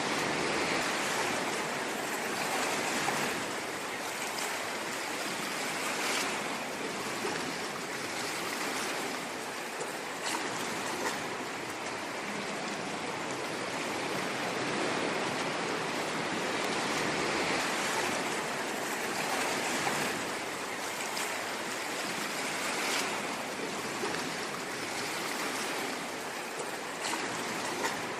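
Sea waves washing onto a shore in a steady rushing wash that swells and eases every few seconds.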